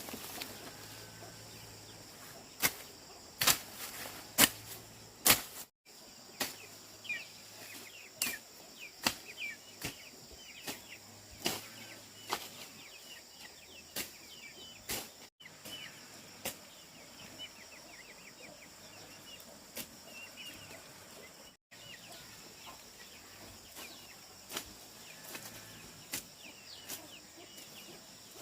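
Irregular sharp snaps and cracks, a cluster of loud ones a few seconds in, over a background of chickens faintly clucking and chirping.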